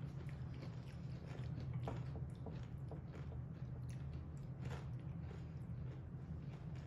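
People chewing Takis Crunchy Fajita rolled corn tortilla chips, with faint, scattered crunches over a steady low hum.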